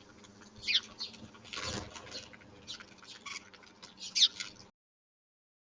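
Wild birds chirping: a string of short, falling chirps, the loudest about a second in and again near four seconds, with a brief rushing noise in between. The sound then cuts off suddenly.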